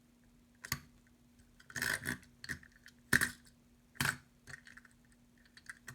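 Light clicks and clinks of small die-cast toy cars being handled: a handful of sharp knocks a second or so apart, with smaller ticks between, over a faint steady hum.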